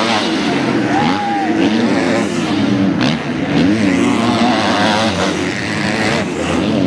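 Several motocross bike engines revving up and down on the track, their overlapping engine notes rising and falling as riders work the throttle.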